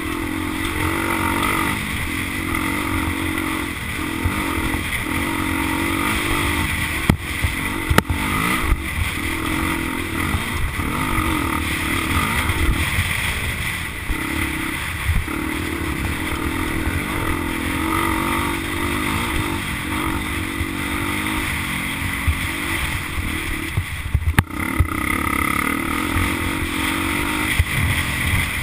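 Motocross dirt bike engine running and revving up and down again and again, under steady wind-like noise, with a few sharp knocks.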